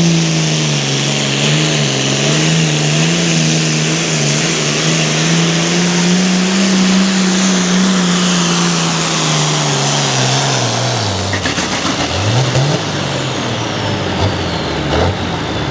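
Hot farm pulling tractor's diesel engine running at full throttle under load, its pitch wavering, then dropping off about eleven seconds in as the throttle comes back at the end of the pull. A high turbo whine falls away after the drop.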